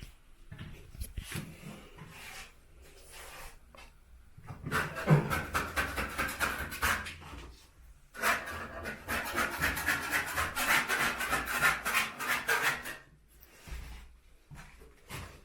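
A hand tool scraping rapidly over a wall in two long bouts of rough, rasping strokes, as during stripping of old wall coverings in a room being demolished.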